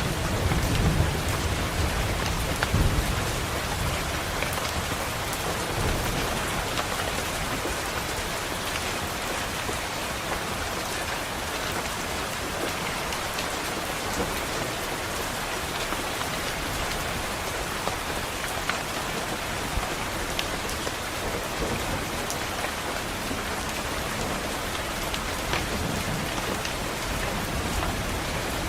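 Steady rain on a window pane, an even hiss with fine drop ticks. A low rumble of thunder in the first few seconds dies away.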